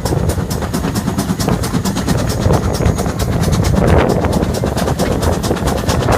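Steam train running: a steady low rumble with a rapid, even beat of about six a second.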